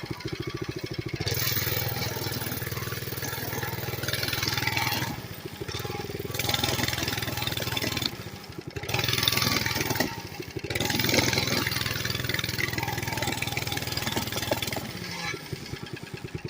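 Mini bike engine idling with rapid, even putts, then opened up about a second in and running steadily under throttle. It eases off briefly three times and drops back to idle near the end.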